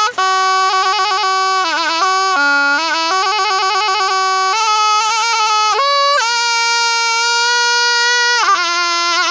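Thai pi reed oboe playing a solo melody in one unbroken line: held notes alternate with quick ornamental turns and wavering trills, with a bright, reedy tone.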